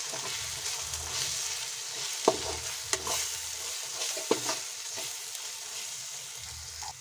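Onion-tomato masala with spices sizzling in hot oil in a kadhai while a slotted metal spatula stirs and scrapes it, knocking sharply against the pan a few times.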